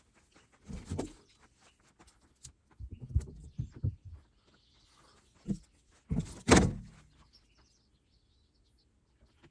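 Thuds and clunks of gear being handled and set down during unloading, a handful of separate knocks with the loudest about six and a half seconds in.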